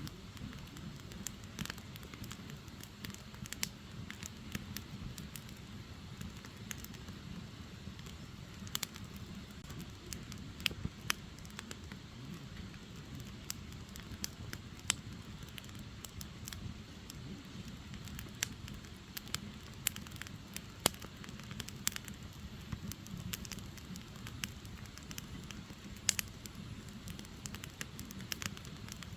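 Wood logs burning in a fire: irregular sharp crackles and pops over a low, steady rumble of flame, with a few louder pops standing out.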